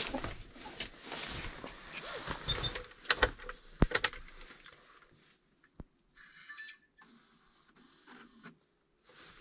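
Handling noises inside a vehicle cabin: several sharp clicks and knocks, loudest about three to four seconds in, then a brief hiss. No engine is running.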